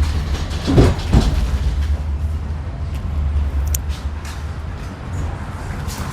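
A tram's steady low rumble, heard from inside the car, with two short knocks about a second in.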